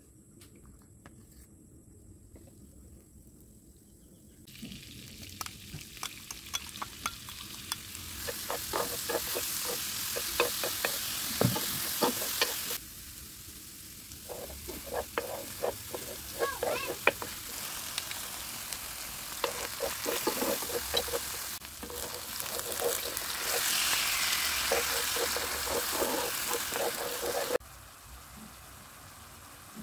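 Minced garlic sizzling in hot oil in a wok, with a spatula stirring and scraping through it, and then a ketchup sauce sizzling as it is stirred. It is faint for the first few seconds, and the sizzle starts suddenly about four seconds in.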